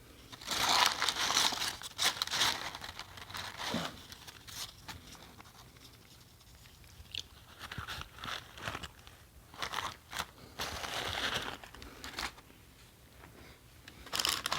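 Hamburger wrapper crinkling and rustling in irregular bursts as it is handled and peeled away from the burger, loudest in the first couple of seconds and again about ten seconds in.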